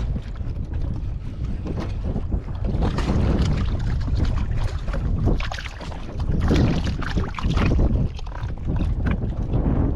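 Wind buffeting the microphone on a kayak on open water, with a noisy rush that swells and eases in gusts.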